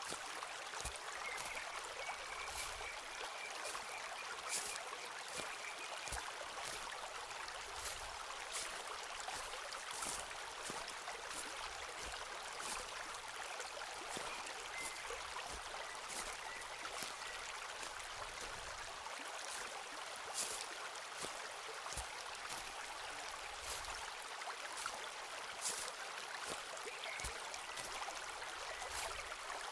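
Footsteps walking on a forest path, with short crisp crunches about once or twice a second over a steady rush of flowing water.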